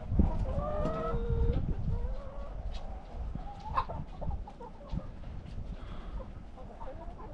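Chickens clucking and calling, with one drawn-out call in the first second or two, and scattered light knocks.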